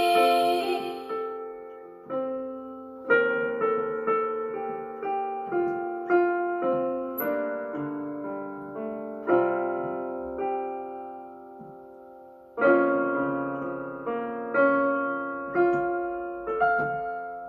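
Solo piano playing the slow closing chords and melody of a worship song, without singing. Each chord is struck and left to ring and die away before the next.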